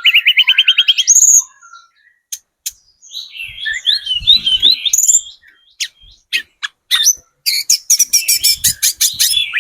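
Tledekan gunung singing: a fast high trill of about ten notes that climbs at its end, a short pause with single sharp notes, a warbled phrase, then a rapid rattling run of high notes near the end.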